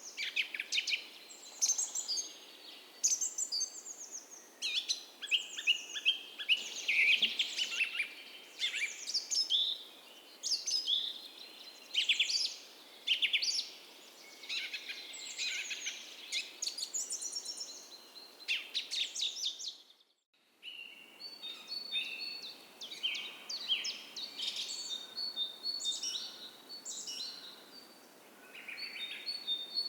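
Dawn chorus of many songbirds singing and chirping over one another with quick trills and repeated notes. The sound cuts out abruptly for about half a second roughly two-thirds of the way through, then the singing resumes more thinly, with a few held whistled notes.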